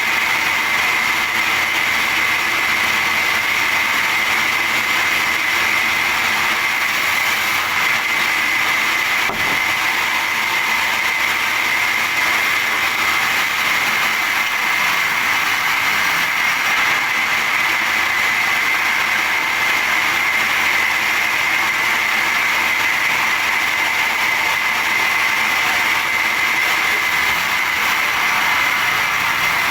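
Sawmill machinery running steadily: a continuous mechanical noise with a high, steady whine.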